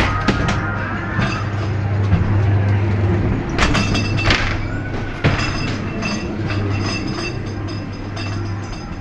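Ghost train ride car running along its track, rattling and clacking over the rails with a steady low hum underneath. Sharp knocks come in a cluster a little before the middle and once more just after.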